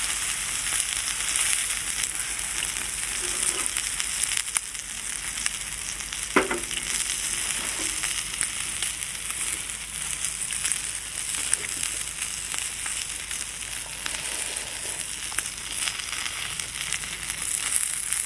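Wagyu beef sizzling on an iron grill plate: a steady hiss with fine crackling, and one brief sharp sound about six seconds in.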